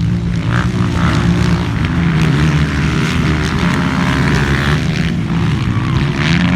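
Several 200cc motocross bikes' engines running hard on the track, their pitch rising and falling as the riders rev and shift.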